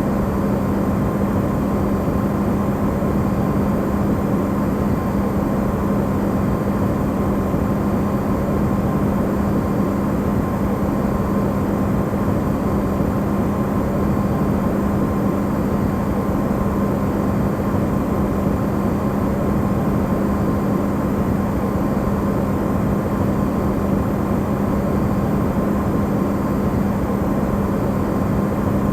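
Electrolux refrigerator running, recorded amplified: a steady, unbroken hum with a fainter higher tone above it, over a dense low rushing noise.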